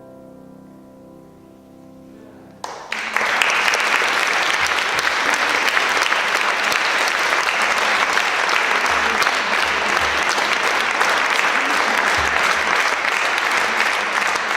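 The final piano chord dies away, then an audience bursts into applause about three seconds in, clapping steadily and loudly.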